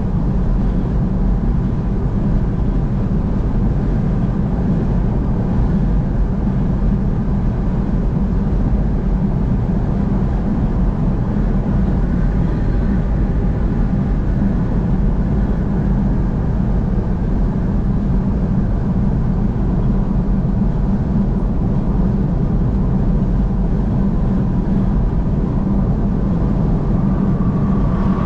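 Steady drone of a vehicle driving on the interstate: tyre and engine noise, deep and unbroken.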